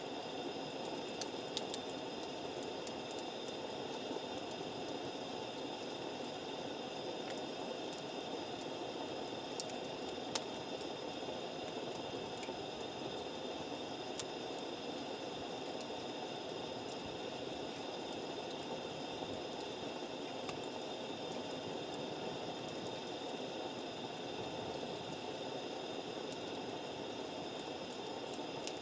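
Wood campfire burning with a steady soft hiss and a few sharp crackling pops scattered through it.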